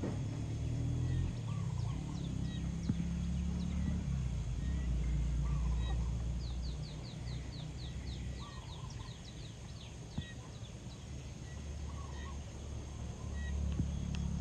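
Chickens clucking softly now and then while feeding, with a quick run of high chirps near the middle, over a low rumble.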